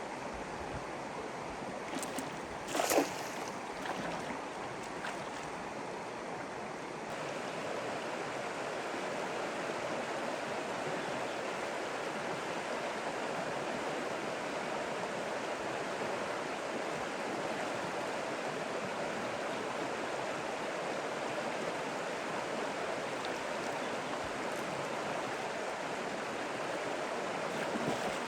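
Steady rush of flowing water, with one brief loud splash about three seconds in.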